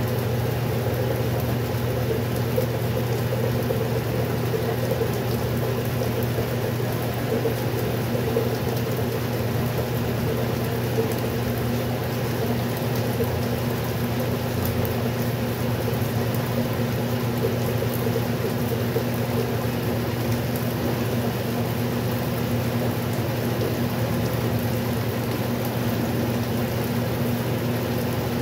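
Westinghouse washing machine running steadily: an even motor hum with a constant water-like splashing noise over it.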